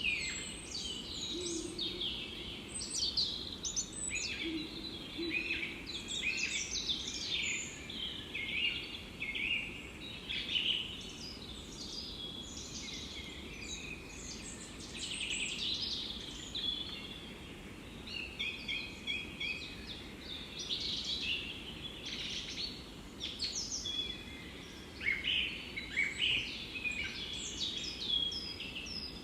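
Forest birdsong: several birds chirping and trilling in quick, overlapping phrases, over a faint steady background hiss.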